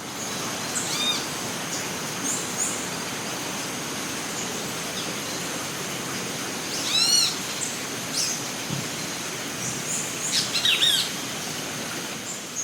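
Rainforest ambience: assorted birds calling over a steady hiss and a high, even drone. The loudest is a quick run of arching calls about seven seconds in, and another cluster of calls comes near the end.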